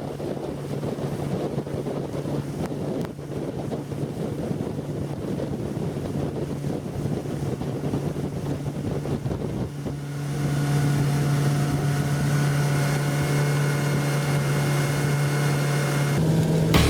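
Yamaha F90C outboard motor running steadily at speed, with wind buffeting the microphone and water rushing past the hull. About ten seconds in, a louder steady held tone with overtones comes in over it and steps to a different pitch near the end.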